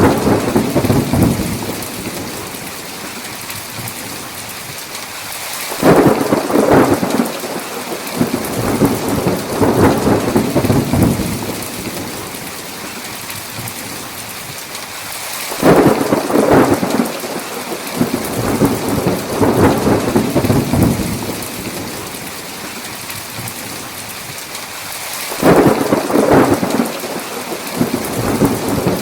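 Steady heavy rain with thunder rolling in three times at even intervals. Each peal opens with a sharp crack and rumbles on for several seconds before fading back into the rain.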